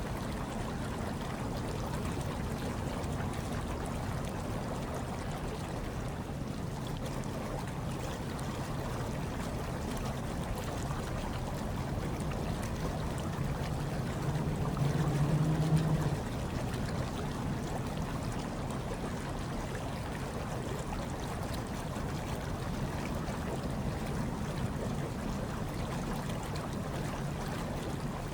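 Hot tub water bubbling and churning steadily over a low hum, with a brief louder swell about halfway through.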